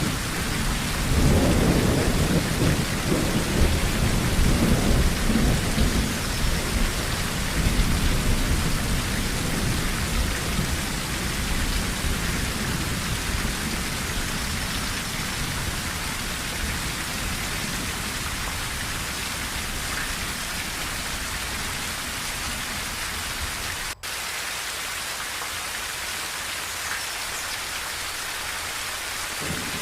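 Heavy rain drumming steadily on a tin roof, with a long roll of thunder that rises about a second in and slowly dies away, and fresh thunder starting at the very end. There is a split-second dropout in the sound near the end.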